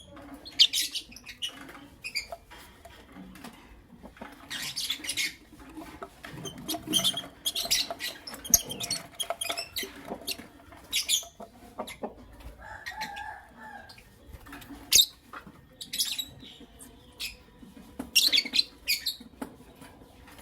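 Pet lovebirds chirping in short, sharp, scratchy bursts at irregular intervals, with wing flutters and small clicking and rustling sounds.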